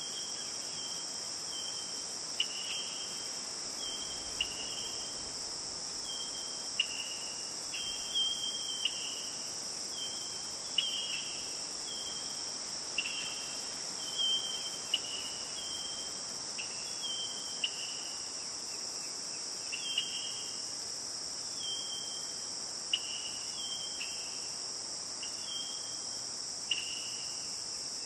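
A steady, high-pitched chorus of crickets and other night insects, with short clipped chirps repeating about once a second over it.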